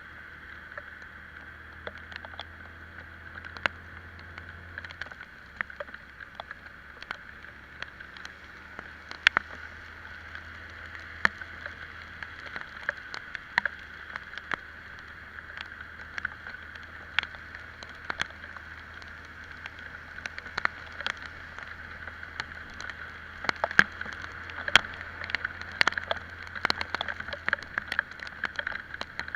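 Muffled ride on an Italika Vitalia 125 scooter in the rain: a steady low engine hum under a hiss of wind and wet road. Irregular sharp ticks of raindrops strike the camera, coming thicker near the end.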